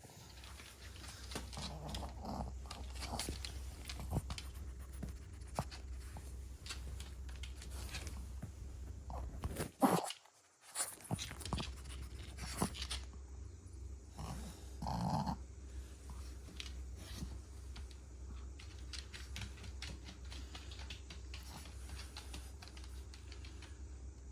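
Shih Tzu dog moving about and breathing, with scattered light clicks and rustles over a low steady hum. The sound drops out briefly about ten seconds in.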